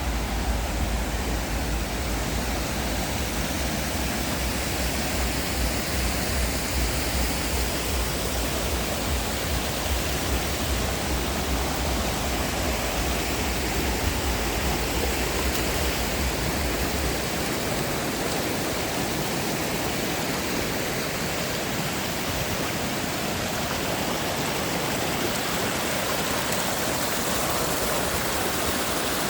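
Steady rush of water falling and running, an even unbroken hiss across all pitches. A deep low rumble underneath stops a little over halfway through.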